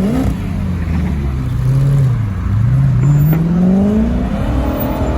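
Car engine revving: a quick rise in pitch at the start, a dip after about two seconds, then a steady climb in pitch through the rest as it pulls away under throttle.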